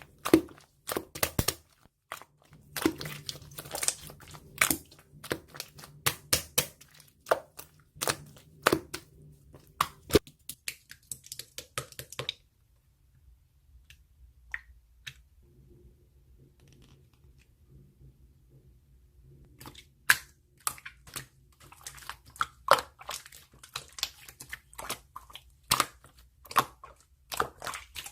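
Slime being squished and stretched by hand, giving rapid sticky clicks and small air-bubble pops. The clicking stops for about seven seconds partway through, then starts again.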